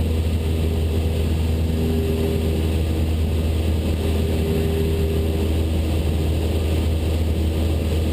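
Cessna 172 Skyhawk's piston engine and propeller droning steadily in cruise flight.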